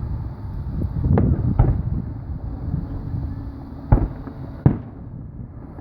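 Fireworks going off in the air: four sharp bangs, two about a second in and two more near the end, over a steady low rumble.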